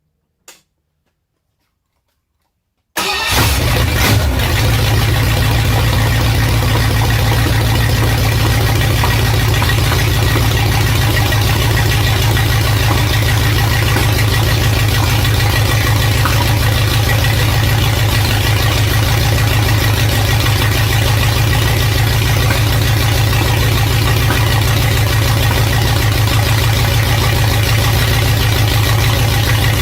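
Ford 8BA flathead V8 engine on a run stand, running steadily through headers after a few seconds of near silence. The engine sound comes in suddenly about three seconds in and then holds an even idle.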